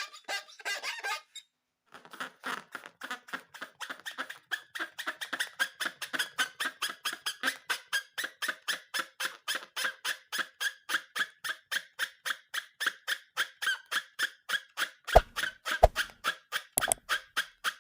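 Rubber balloon squeaking in a quick, even rhythm of about four to five squeaks a second, with a short pause early on. A few sharp knocks come near the end.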